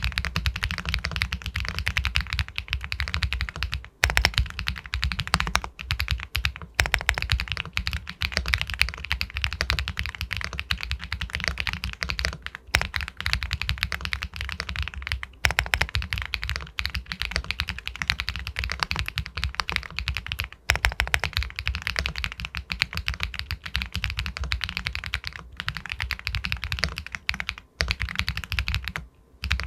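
Continuous fast typing on an Epomaker Galaxy 80 Pro full-aluminium mechanical keyboard with White Jade linear switches, a dense run of keystrokes broken by a few short pauses.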